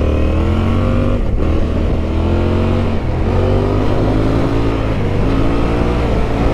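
Yamaha Ténéré 700's parallel-twin engine accelerating under way, its pitch climbing and dropping back at gear changes a little over a second in and again around three seconds.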